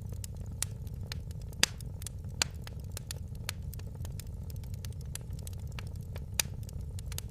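Fire in a fireplace crackling: a steady low rumble under many quick pops and clicks, with a few louder pops, the sharpest about one and a half and two and a half seconds in and another near the end.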